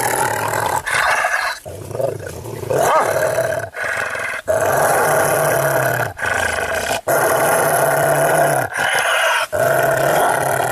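Dog barking and growling loudly, in long stretches broken by short pauses.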